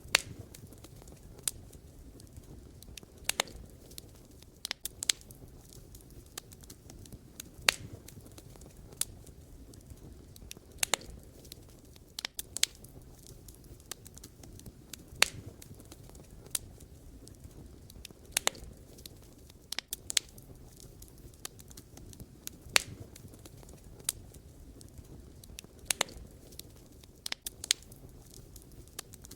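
Wood fire crackling: a low, steady rumble of burning firewood with sharp, irregular pops and snaps every second or so, a few much louder than the rest.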